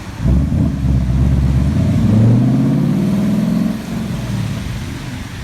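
A car engine accelerating hard. It comes in suddenly with a loud burst, rises in pitch for about three seconds, then eases off; it sounds absolutely ridiculous.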